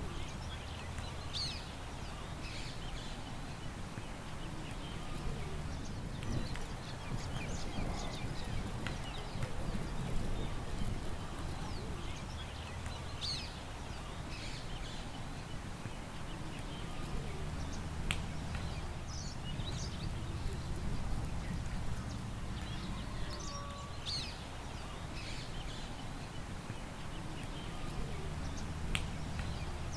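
Scattered bird chirps, short high calls every few seconds, over a steady low rumble of wind.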